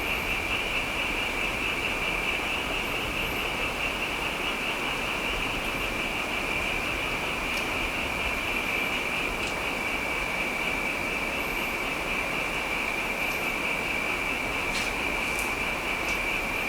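Steady rain with a continuous high-pitched trilling chorus of night creatures over it, unchanging throughout.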